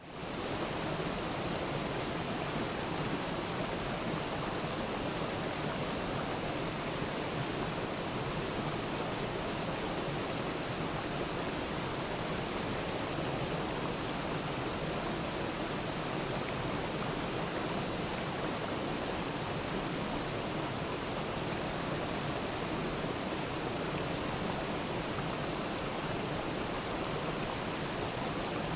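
Waterfall: a steady, even rush of falling water, fading in from a brief dropout at the very start and then unchanging.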